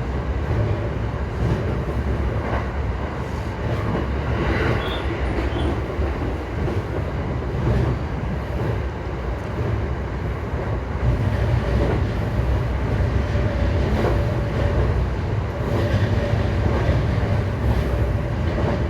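JR East E235-1000 series electric train running at speed: a steady rumble of wheels on rail with the hum of its Mitsubishi SiC-VVVF traction equipment, a faint steady tone coming and going, a little louder in the second half.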